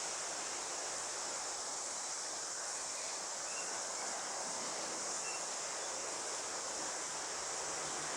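Steady, even outdoor hiss of native bush ambience, strongest high up, with a couple of faint short chirps partway through.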